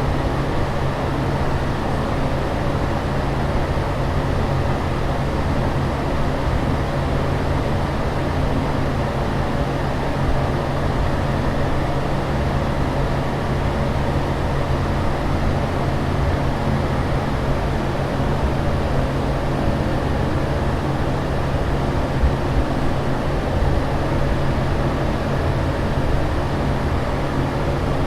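Steady airliner cabin noise in flight: a constant rushing drone, strongest in the low end, with a steady low hum underneath.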